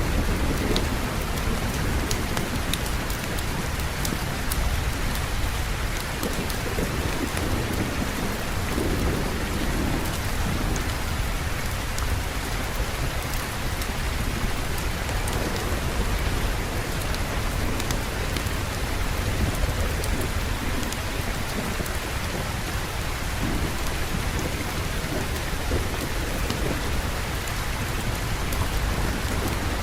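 Steady heavy rain falling, with a low rolling rumble of thunder underneath.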